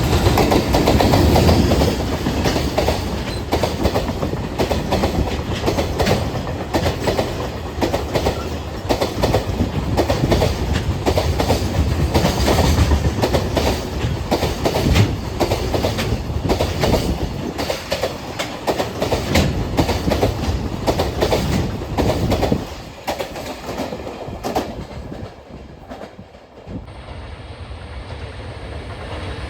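Freight train passing at close range, its wagon wheels clacking in quick succession over the rail joints. The sound drops off sharply about three-quarters of the way through as the end of the train goes by.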